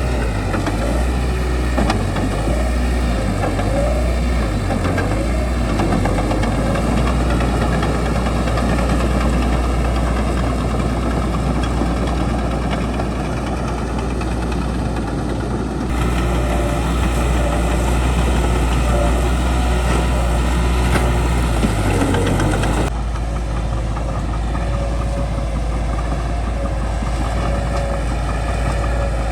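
Bulldozer diesel engine running steadily at working speed. The sound changes abruptly twice, about halfway through and again about three quarters of the way in.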